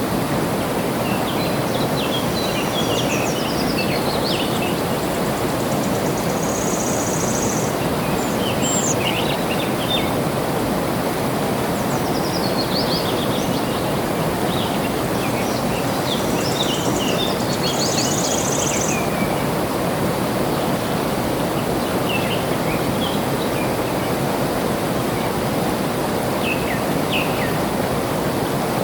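Water flowing steadily, like a stream, with small birds chirping in short runs of quick notes off and on. A short, even, high buzz comes twice.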